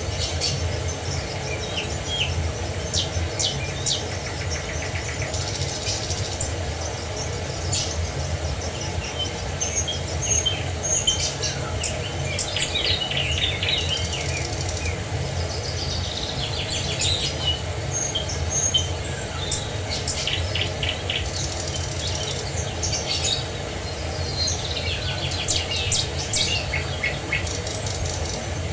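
Several songbirds chirping, trilling and calling in quick overlapping phrases, over the steady low rush of a waterfall.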